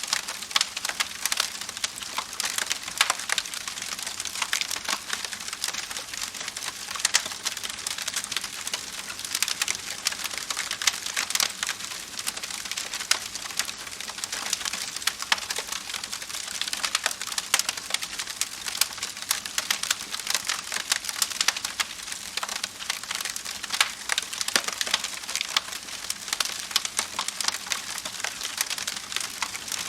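Wood fire crackling, with a steady hiss and frequent sharp pops and snaps scattered throughout.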